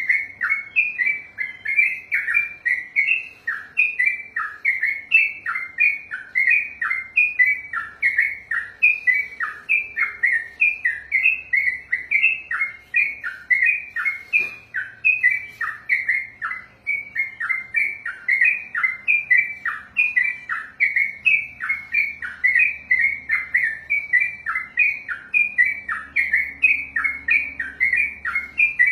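Yellow-vented bulbul (trucukan) singing a long unbroken 'ropel' song: a rapid, steady string of short whistled notes repeated without a pause.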